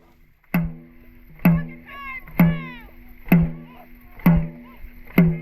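Dragon boat drum beaten at a steady race rhythm, about one beat a second, each hit ringing briefly to keep the paddlers' stroke.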